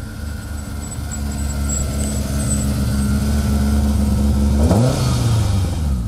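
Ford Escort RS1800 rally car's Cosworth BDA four-cylinder engine running at high, steady revs and growing louder, with a sudden change in pitch about five seconds in.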